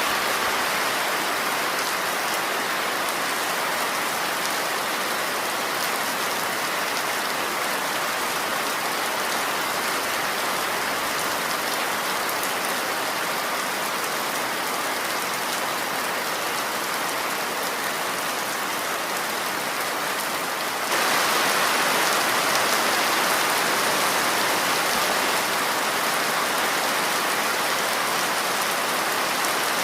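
Steady rain falling, an even hiss of countless drops. About twenty seconds in it abruptly becomes a little louder and brighter.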